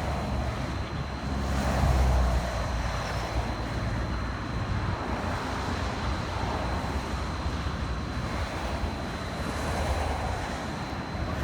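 VTA light rail train at the station platform, its low running noise swelling about two seconds in, with a thin steady high whine over it and wind buffeting the microphone.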